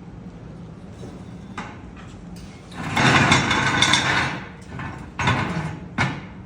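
Mechanical rattling from tool or part work, about a second and a half long, then two shorter bursts.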